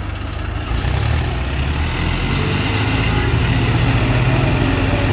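Mahindra tractor's diesel engine running, its revs rising and getting louder about a second in, then held high.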